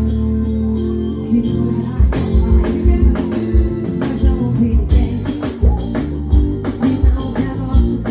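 Live band music: a held low chord, then the drums come in with a steady kick beat about two seconds in.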